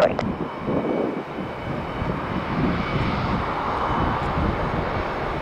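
Jet airliner engines, a steady roar that swells to its loudest about three to four seconds in and then eases slightly.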